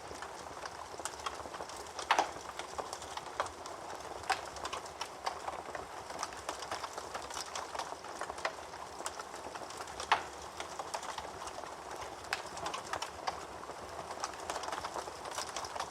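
Wood fire in a fireplace crackling steadily with many small pops, and two louder sharp pops, about two seconds in and about ten seconds in.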